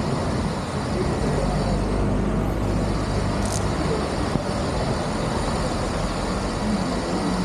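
Steady vehicle noise, a continuous low rumble with a rushing hiss over it.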